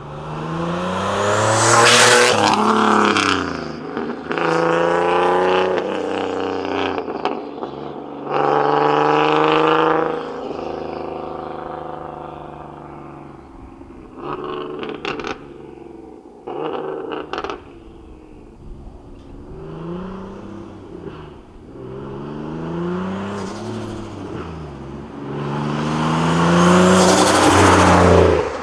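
Turbocharged Nissan 370Z Nismo V6 accelerating in several pulls that rise in pitch, the longest and loudest near the end, with quieter cruising between them. It runs on a test drive after an exhaust leak repair, which the owner judges to sound healthy.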